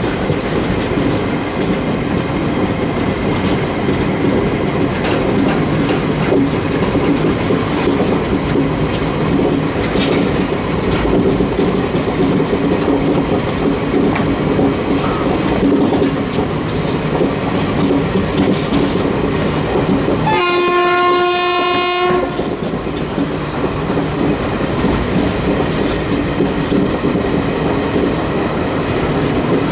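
Passenger train running on the track, a steady rumble with wheel clatter. About two-thirds of the way through, the WCAM-2P electric locomotive sounds its horn once, a single steady note held for about two seconds.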